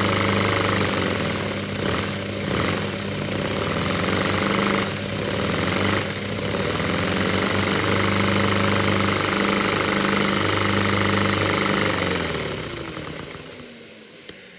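Lego-brick inline-four vacuum engine running steadily, a humming mechanical drone with a rush of air, dipping briefly a few times. Near the end it slows down, its pitch falling as it fades out.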